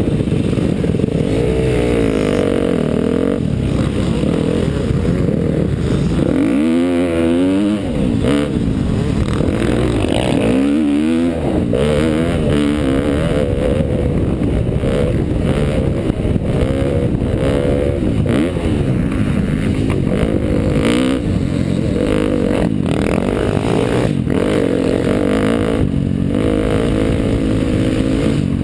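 2012 KTM motocross bike engine running under load, its revs rising and falling as the rider works the throttle around the track, with the strongest swells about a quarter and a third of the way in.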